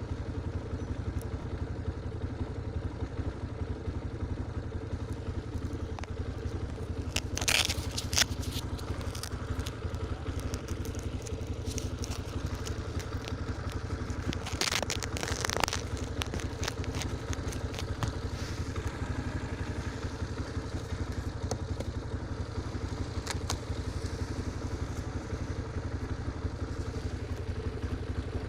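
Motorcycle engine running steadily with an even, fast pulsing hum. Two short, louder bursts of scraping, crackling noise come about a quarter of the way in and again about halfway.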